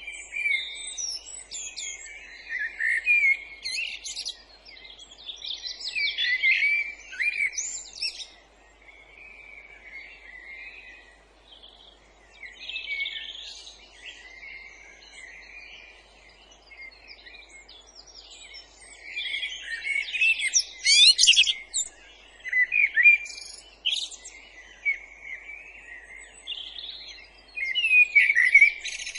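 Songbirds singing: bursts of quick, varied high notes a few seconds long, with quieter gaps between them, over a faint steady hiss.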